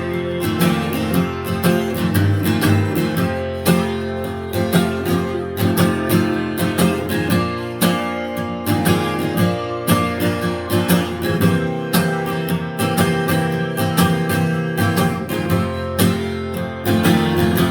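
Instrumental break on acoustic guitar in a country tune: steady strumming and picked notes in an even rhythm, with no singing.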